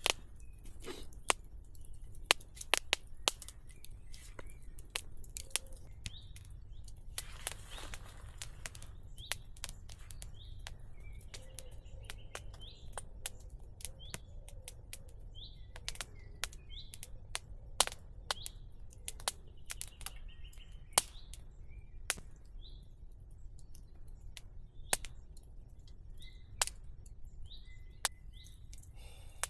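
Wood fire crackling with sharp, irregular pops, while small birds chirp in short high notes throughout. A brief hiss comes about seven seconds in.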